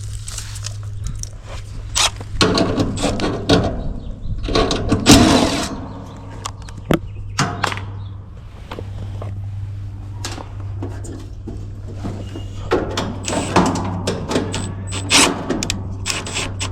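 Scattered clicks, knocks and rustling from hand work on air-conditioning equipment, with louder handling bursts a few times, over a steady low hum.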